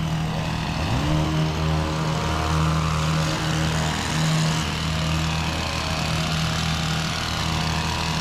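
A small engine running steadily, its pitch rising briefly about a second in.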